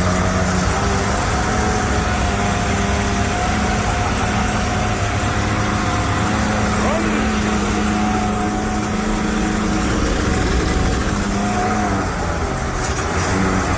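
Ford 302 small-block V8 running steadily just after starting, its pitch wavering a little. It is the engine's first run in years, with fuel newly reaching the carburettor after a fuel filter swap.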